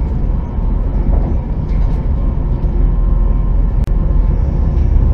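Passenger train running, heard from inside the carriage as a steady low rumble, with a short click about four seconds in.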